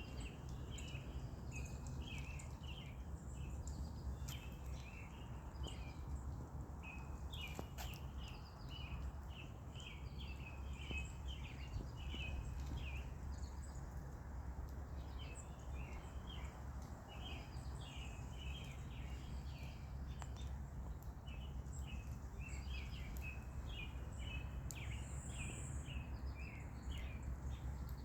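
Birds chirping in quick clusters of short, high notes that keep going, over a steady low rumble.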